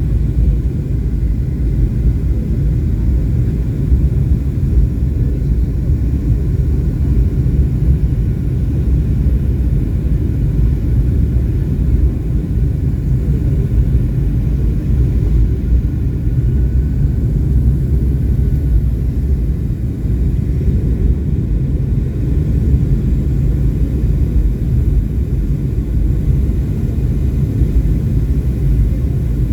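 Airliner cabin noise: a steady low rumble of the engines and rushing air heard from inside the cabin, unchanging throughout.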